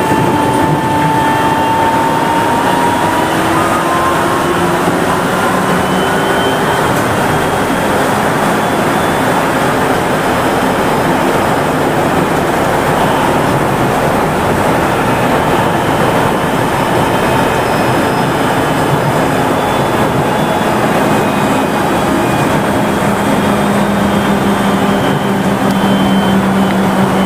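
Kanazawa Seaside Line 2000-series rubber-tyred automated guideway train running, heard from inside the car: a steady rumble of the tyres on the guideway. A faint whine glides slowly upward in the first few seconds, and a low hum comes in about twenty seconds in.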